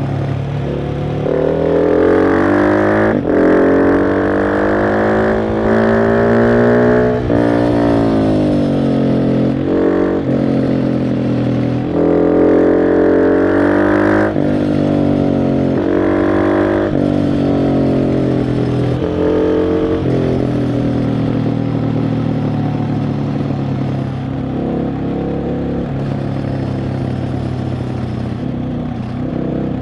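KTM 690 SMC R's single-cylinder engine under way: it climbs in pitch through several quick gear changes over the first seven seconds, drops back as the throttle closes, then pulls up again in short bursts before settling to a steadier, lower cruise for the last third.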